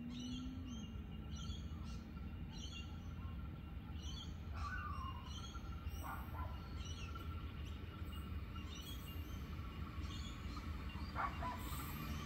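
Birds chirping: short high chirps repeat about once a second, with a couple of lower, falling calls near the middle. A steady low rumble runs underneath.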